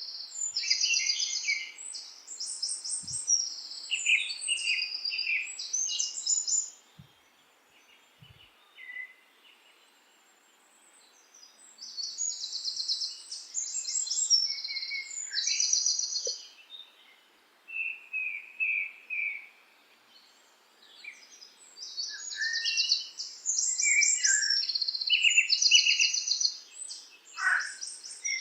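Songbirds singing in bursts of fast, high trills with lower chirps between them, going quiet for a few seconds about a third of the way in and briefly again later.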